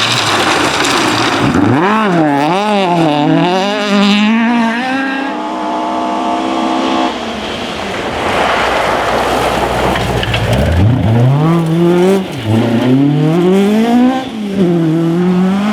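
Historic rally car's engine revving hard on a forest stage. Its pitch climbs and drops repeatedly with gear changes and throttle lifts. Midway there is a few seconds of tyre and gravel noise, then the engine pulls hard again.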